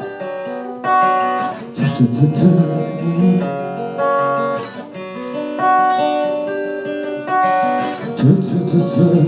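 Acoustic guitar playing an instrumental break between verses of a song: picked chords ringing out and changing about once a second, with busier strummed passages twice.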